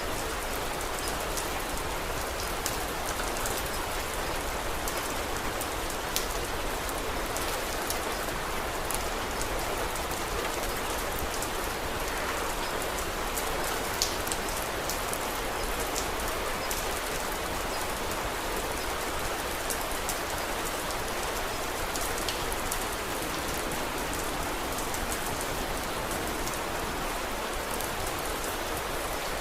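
Steady rain falling, an even hiss with scattered sharp ticks of individual drops, a few louder ones standing out.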